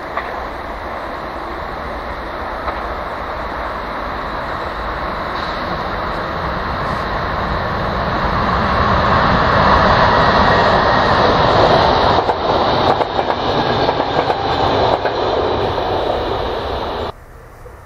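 Electric multiple-unit passenger train approaching and passing close by: a rumble that grows louder to a peak, then rhythmic wheel clatter as the cars go by. The sound cuts off abruptly near the end.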